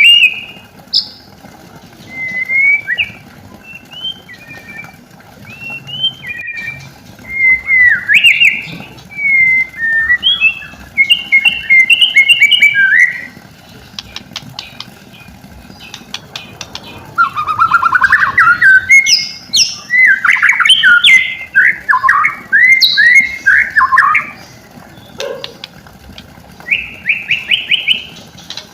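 White-rumped shama (murai batu) song: a string of varied clear whistled phrases, a pause of a few seconds, then a faster run of rapid rising notes and trills, with another short trill near the end.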